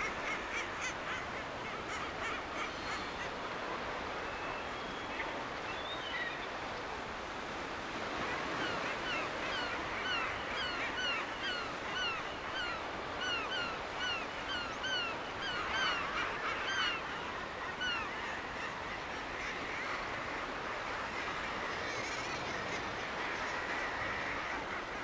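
Gulls calling, with scattered calls at first and then, from about a third of the way in, a long run of repeated yelping notes, several a second, that fades out again about two-thirds through. A steady hiss runs underneath.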